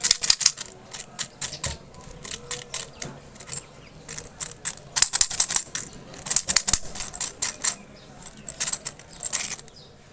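Plastic candy packaging being handled and opened by hand: quick runs of crisp crackling and clicking that come in clusters with short pauses.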